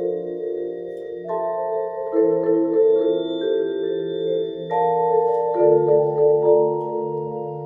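Percussion ensemble playing slow, sustained chords on mallet instruments such as vibraphone and marimba, the notes wavering as they ring. New chords are struck twice, about a second in and near the middle.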